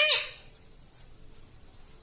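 Ring-necked parrot giving one short, loud call right at the start that fades within half a second.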